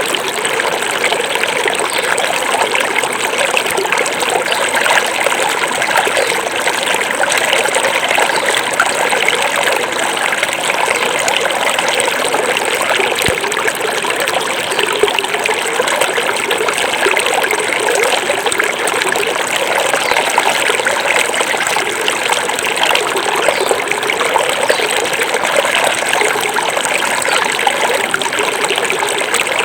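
A small forest river flowing and babbling over rocks, a steady rushing and trickling of water.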